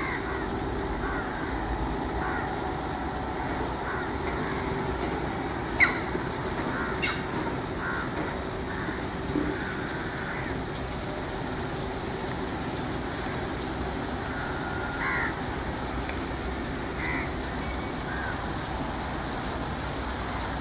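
Birds calling over riverside ambience: scattered short chirps and calls, the sharpest about six seconds in, over a steady low background hum.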